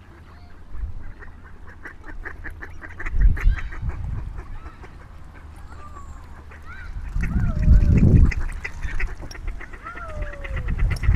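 Waterfowl on water calling: a busy run of short repeated calls, with several falling calls in the second half. Loud low rumbling surges come about three seconds in, around eight seconds and again at the end.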